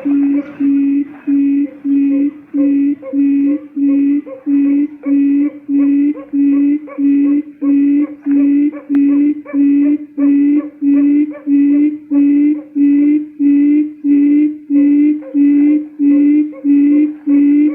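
Recorded quail lure call: a low hooting note repeated steadily about twice a second, each with a fainter higher whistle, in an unbroken, even series.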